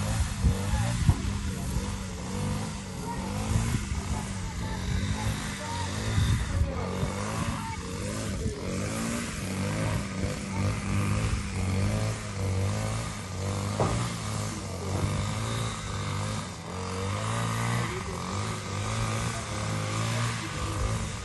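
A small engine running steadily, its speed wavering slightly.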